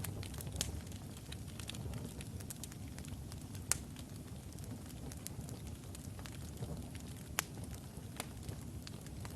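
Wood logs burning in a fireplace: a steady low rumble of flame with scattered sharp crackles and pops, two louder pops near the middle and past two-thirds of the way through.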